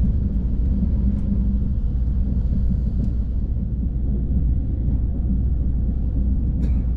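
Steady low rumble of an SRT KTX-Sancheon high-speed train running at speed, heard inside the passenger coach, with a couple of faint ticks.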